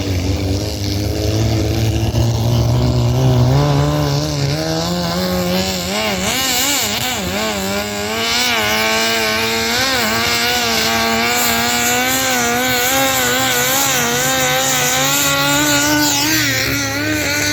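Engine of a pulling vehicle revving up over the first few seconds, then held at high revs under load with its pitch wavering, and dropping in pitch near the end.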